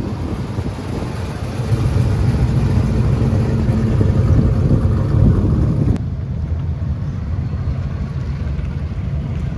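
A car engine running while driving, with low rumble and road noise; about six seconds in the sound changes abruptly and turns duller.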